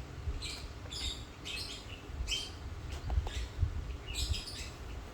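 A small bird chirping repeatedly, short high chirps about once or twice a second, over a steady low rumble.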